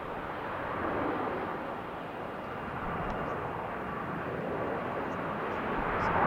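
Airplane engine noise: a steady rushing sound that swells slightly about a second in and grows louder near the end.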